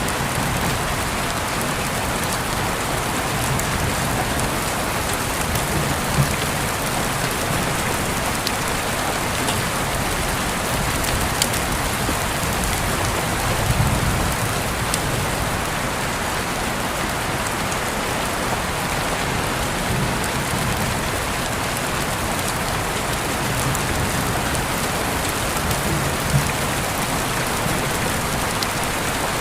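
Steady rain falling on a surface, a dense even hiss with a few louder drops striking now and then.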